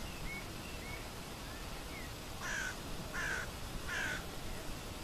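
A bird gives three harsh calls, about two-thirds of a second apart, in the second half. Faint high chirps of small birds come earlier, over a steady outdoor hiss.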